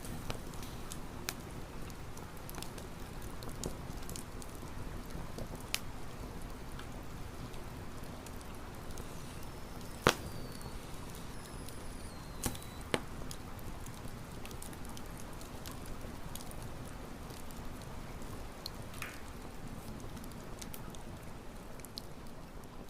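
Campfire crackling: scattered sharp pops over a low steady rumble. The loudest pop comes about ten seconds in, with two more a couple of seconds later.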